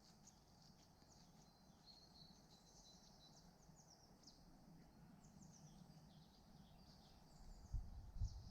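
Faint woodland birdsong: many quick chirps and short trills from small birds. Near the end come a couple of low thumps, the loudest sounds.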